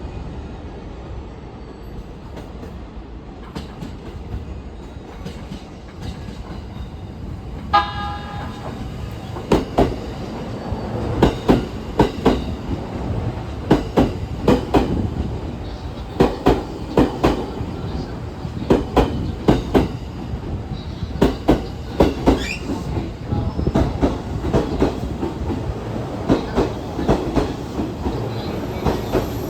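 E231 and E233 series electric commuter train arriving: the electronic horn gives a short blast about eight seconds in. Then the wheels clatter over the rail joints in repeated pairs of clicks as the cars roll past.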